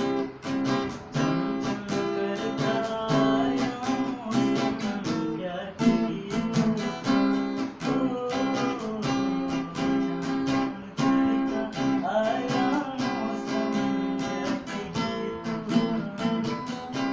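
Acoustic guitar strummed in a steady, even rhythm of several strokes a second, playing an instrumental passage of the song.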